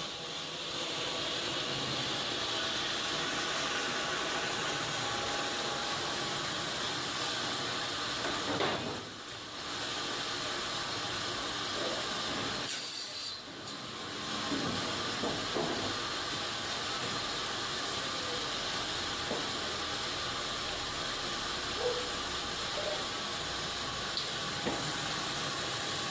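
Sawmill running with a steady mechanical noise as it cuts. The noise drops out briefly twice, about a third of the way through and again about halfway.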